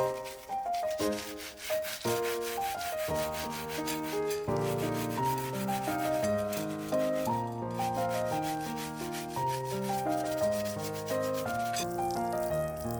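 Quick repeated hand-scrubbing strokes on the metal fire-pit grate, scouring off dirt and grime, over background music.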